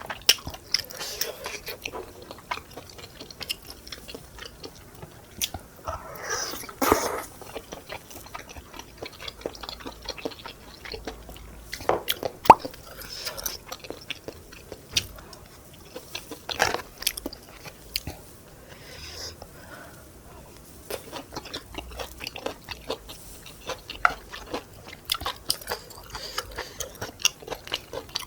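Close-miked eating of tteokbokki: chewing and biting with many small wet mouth clicks, and a few louder, longer noisy stretches.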